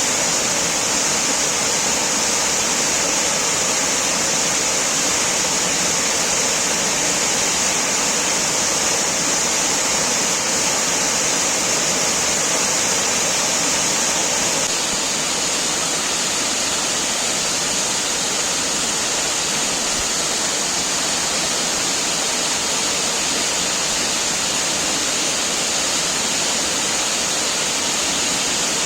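Waterfall, falling water rushing steadily and loud, easing slightly about halfway through.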